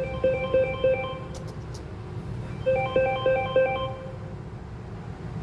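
A phone ringing with an electronic ringtone: a short tune of quick notes, played twice.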